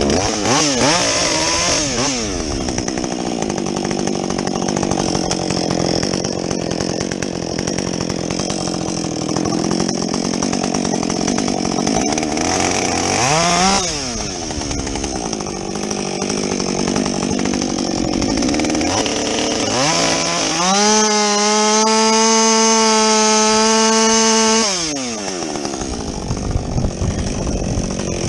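Husqvarna 562XP two-stroke chainsaw with a modified, opened-up muffler, cutting through logs. The engine pitch dips and climbs as the chain works through the wood, then is held at steady full revs for about four seconds before dropping back.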